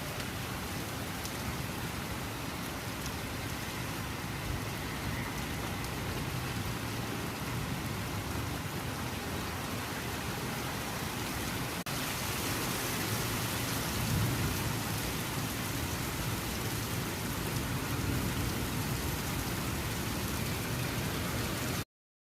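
Steady rain falling: a continuous even hiss with a low rumble underneath. It jumps slightly louder at a cut about halfway through and stops abruptly near the end.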